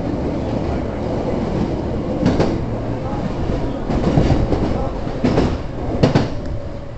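Hankyu Railway electric train running over a steady rumble, its wheels clacking over rail joints in several sharp knocks at uneven intervals.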